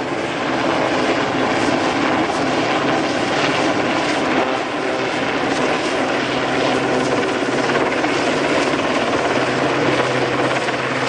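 RAF Westland Sea King helicopter's rotors and twin Rolls-Royce Gnome turboshaft engines running steadily: a loud, even noise with a low steady hum underneath.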